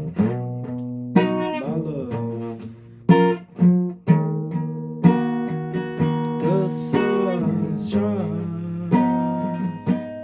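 Guitar playing: chords struck roughly once a second and left to ring between strokes.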